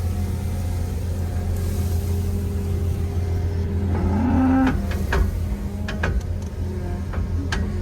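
Engine of a farm machine running steadily at a low idle, briefly revving up about four seconds in, with several sharp clicks or knocks in the second half.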